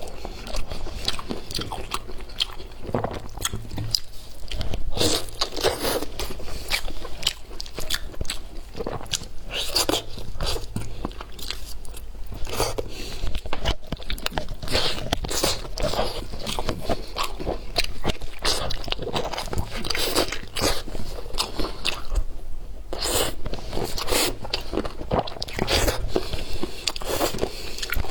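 A person eating: repeated bites and chewing with crunching, an irregular run of sharp clicks.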